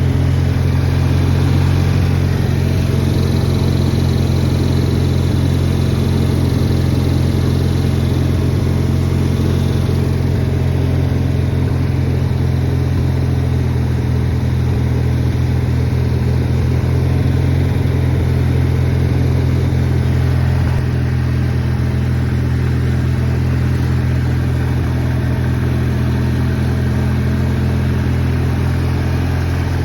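Kohler 18-horsepower twin-cylinder engine of a Craftsman garden tractor running at a steady speed.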